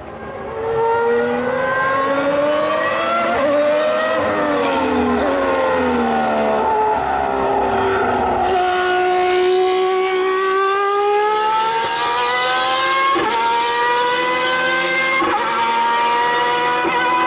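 Formula 1 racing engine revving hard at high pitch. It climbs through the gears, with abrupt drops in pitch at several upshifts.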